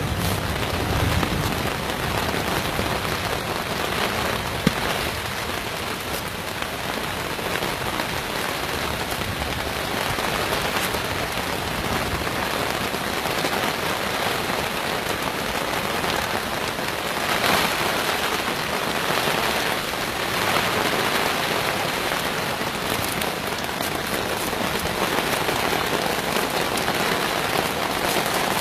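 Heavy rain pouring down steadily, an even rushing hiss of a downpour that swells slightly twice in the second half.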